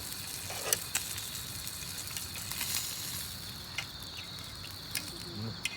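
Crickets chirring steadily in a high, even drone, with a few sharp clicks scattered through.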